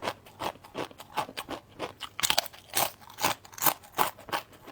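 Someone chewing crispy sweet potato chips close to the microphone, a steady run of crunches at about three a second.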